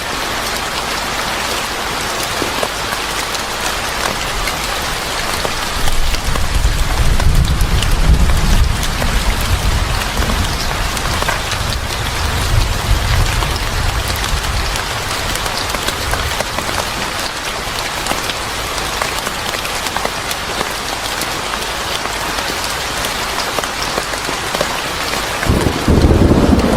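Steady heavy rain. A low rumble of thunder rolls in about six seconds in and lasts for several seconds, and another begins near the end.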